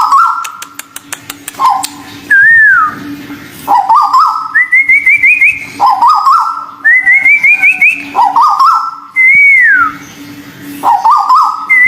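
Repeated calls of a white-billed tuwu bird: quick runs of short stepped notes at a lower pitch alternate with higher whistles, some a rising run of short notes, others a long note sliding steeply down. A faint steady hum runs underneath.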